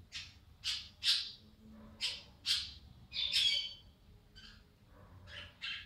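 Pet parakeet calling in a run of short, raspy squawks, several coming in quick pairs, as it imitates the word "perro".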